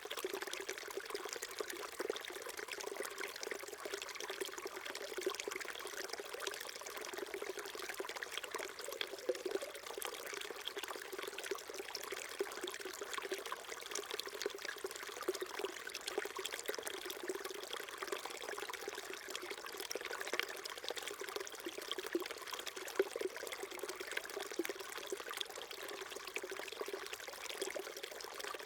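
Small mountain stream flowing and trickling steadily over stones, a continuous babbling with small splashes flickering through it.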